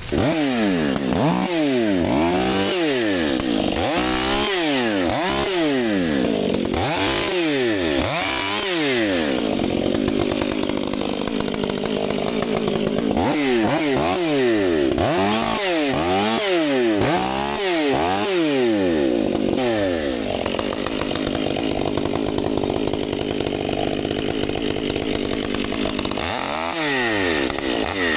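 Chainsaw cutting through buckthorn brush, revving up and falling back about once a second in quick successive cuts, holding a steadier pitch for a few seconds twice along the way.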